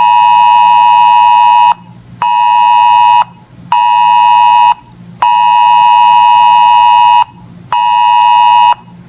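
NOAA weather radio alert tone: a loud, buzzy beep near 1 kHz sounding in a long-short-short pattern (a two-second beep, then two one-second beeps with half-second gaps), repeated. It marks an incoming National Weather Service alert, here a wind advisory.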